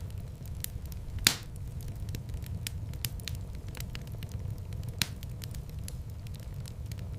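Wood fire in a fireplace crackling over a steady low rumble of flames, with many small ticks and a loud sharp pop a little over a second in and another about five seconds in.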